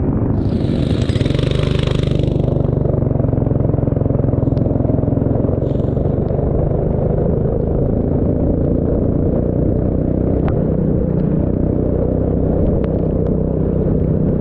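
A racing vehicle's engine running, with a heavy, steady low rumble and a brief hiss about a second in.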